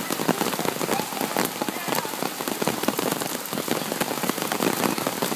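Heavy rain pouring down in a steady downpour, with a dense crackle of drops striking surfaces.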